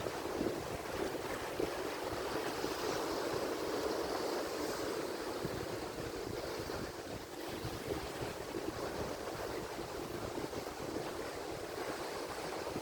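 Atlantic Ocean surf washing ashore in a steady rush of noise, gently swelling and easing, with wind on the microphone.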